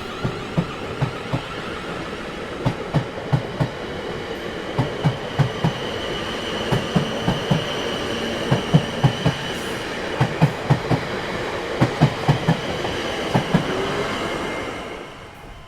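Train wheels clattering in a steady rhythm of grouped knocks as the wheelsets cross rail joints, over a continuous rolling rumble with a high steady whine. The sound fades away near the end.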